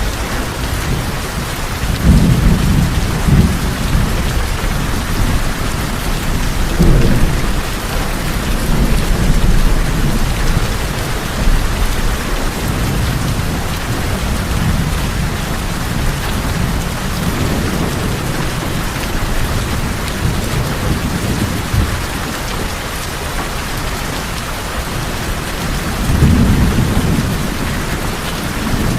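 Steady heavy rain drumming on tin roofs, with deep rumbling swells that rise and fade several times, loudest about two seconds in and again near the end.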